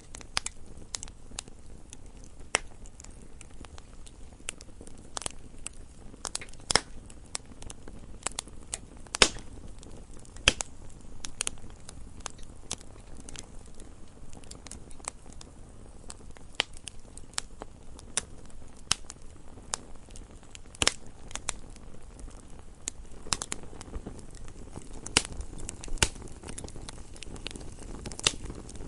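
Campfire crackling: irregular sharp pops and snaps of burning wood over a low, steady hiss.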